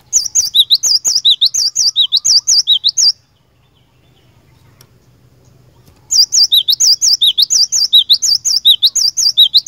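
Cinereous tit (glatik batu) singing: two bouts of rapid, high, repeated two-note phrases, with a pause of about three seconds between them.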